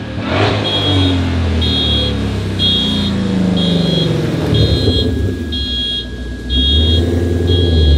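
Ford Shelby GT500's V8 engine running and revving, its pitch rising and falling, with a high electronic beep repeating about once a second. A thin steady tone joins about halfway through.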